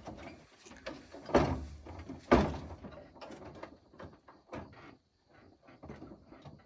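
Work clatter: a run of short knocks and clanks, with two heavy bangs, one about a second and a half in and one about a second later.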